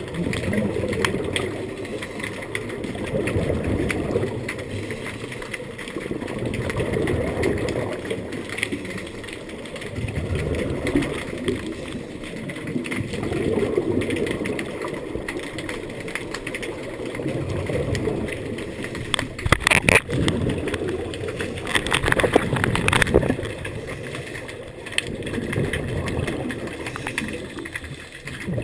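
Scuba diver breathing underwater through a regulator: bubbly exhalations that swell and fade about every three to four seconds. Several sharp clicks come about two-thirds of the way in.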